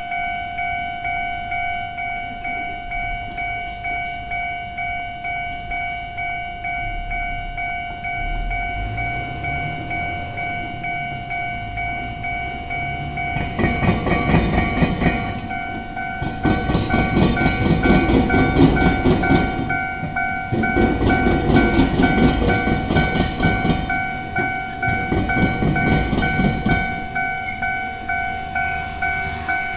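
Wheels of a train clattering over the rail gaps of a right-angle diamond crossing, with rapid clicks and clacks in several loud runs over about thirteen seconds. A level-crossing bell rings steadily throughout, and a rising motor hum is heard as the train comes up before the clatter starts.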